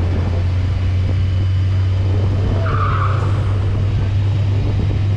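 A car engine running with a steady, loud, low drone, cut by a short tire squeal a little under three seconds in.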